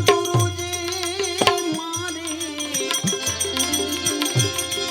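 Instrumental break in a Gujarati devotional bhajan. A held, sustained melody line plays over a steady hand-drum beat and bright jingling hand percussion.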